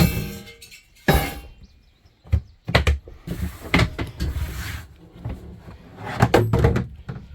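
Large plastic Action Packer storage box being opened and its contents handled: a series of knocks and thunks, with a stretch of rustling in the middle.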